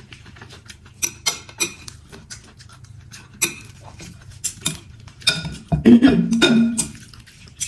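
Spoon and chopsticks clicking against a bowl of noodles while eating, with a louder, longer eating sound about six seconds in.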